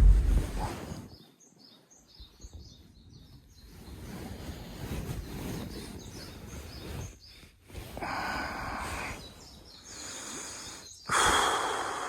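Outdoor woodland ambience: small birds chirping in short high notes, over patches of rustling noise that come and go and cut off abruptly.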